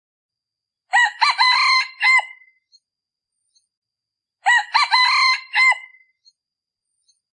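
A male decoy junglefowl cock crowing twice, about three and a half seconds apart. Each crow is short and clipped, about a second and a half long. It is the call used to lure wild junglefowl cocks.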